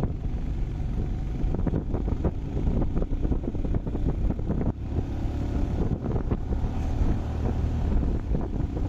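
Wind buffeting the microphone over a motorcycle engine running steadily while riding, with a heavy, gusting rumble.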